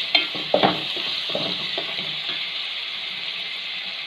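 Chopped tomatoes, shallots and green chillies sizzling in hot oil in a metal pan while a wooden spatula stirs them, with a few spatula knocks and scrapes in the first couple of seconds, then a steady sizzle.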